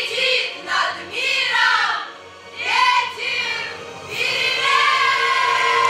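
A choir singing with musical accompaniment, the song ending on a long held note that starts about four seconds in.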